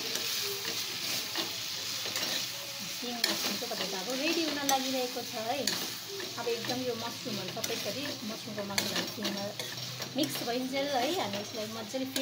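Rice noodles with button mushrooms sizzling in an aluminium pan while a metal spatula stirs and tosses them, scraping and clicking against the pan many times.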